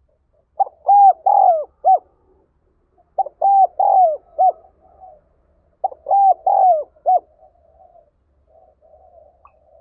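Spotted dove cooing its urgent calling song: three loud phrases of four or five rising-and-falling coos, one about every two and a half seconds, then soft murmuring coos near the end.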